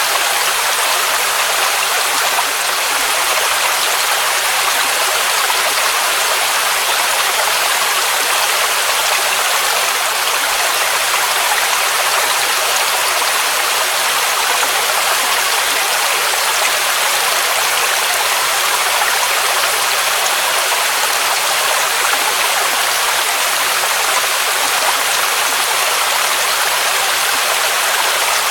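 Waterfall rushing: a steady, unbroken hiss of falling water, strongest in the upper range with little low rumble.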